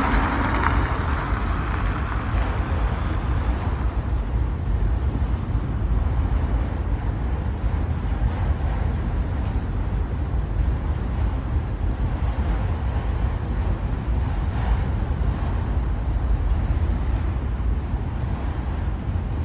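Freight train rolling past, a steady low rumble of wheels on rails heard from inside a car.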